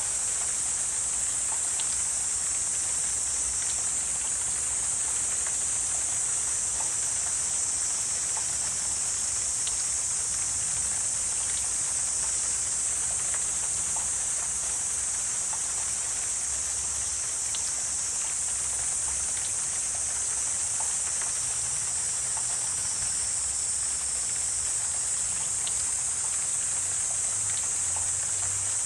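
Wetland insect chorus: a steady, unbroken high-pitched buzzing drone, with faint scattered ticks and a soft low rumble underneath.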